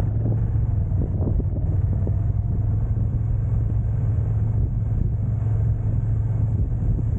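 A car driving, heard as a steady low rumble of engine, tyres and wind.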